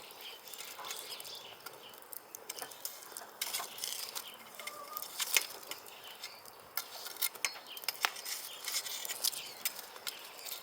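Wood and charcoal fire crackling: irregular sharp pops and clicks, a few louder than the rest.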